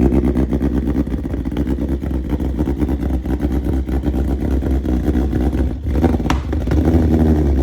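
Motorcycle engine running steadily, with a fast even pulse of firing strokes.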